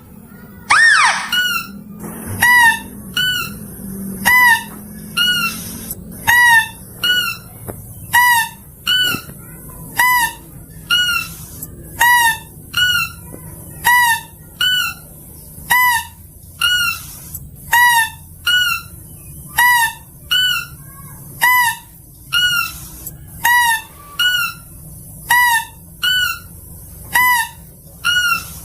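Mouse-deer (kancil) call recording used as a hunting lure: short, sharp hooked calls repeated about once a second, with one long falling squeal about a second in.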